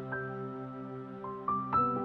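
Soft background music: slow, gentle keyboard notes struck one after another and left to ring.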